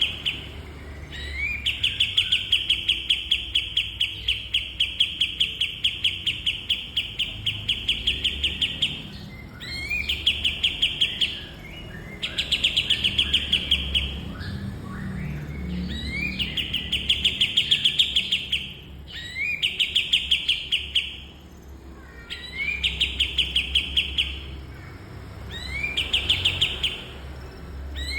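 Kapas tembak songbird singing a series of long rapid trills, each phrase opening with a quick rising note and running from one to several seconds, with short pauses between phrases. This is masteran, a recording played to tutor other songbirds.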